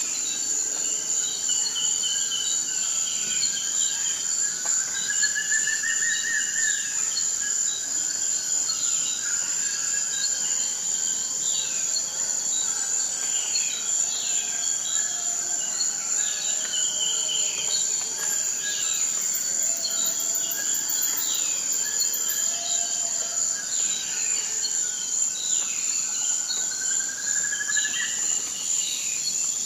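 Forest ambience: a steady high-pitched insect chorus with birds calling over it, many short falling whistled notes, and twice a rising trill, once early and once near the end.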